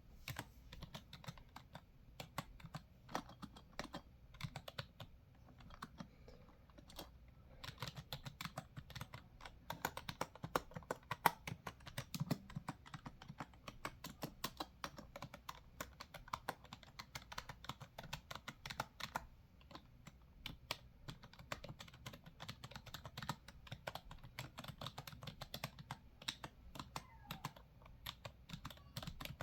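Computer keyboard typing: a steady run of key clicks at an uneven pace, several strokes a second, without pause.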